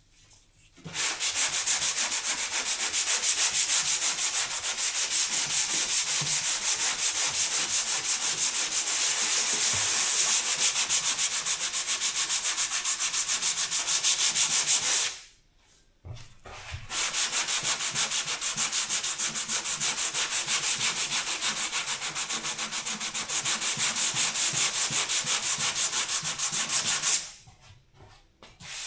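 Sanding, in two long runs of about fourteen and ten seconds with a short stop between.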